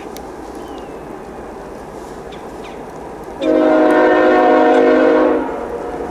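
Diesel locomotive's multi-chime air horn sounding one long blast of about two seconds, starting about three and a half seconds in, over a steady rushing background. Birds chirp briefly around it.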